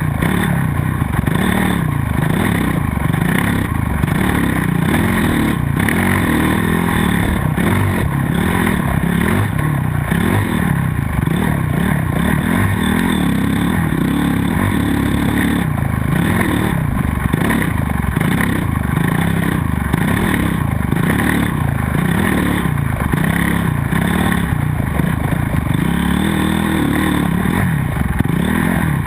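Motocross bike engine revving hard as it is raced, its pitch rising and falling every second or two with throttle and gear changes.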